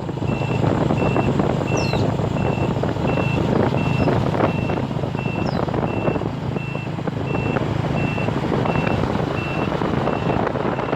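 A steady run of high electronic beeps, about three every two seconds, over loud continuous rumbling noise.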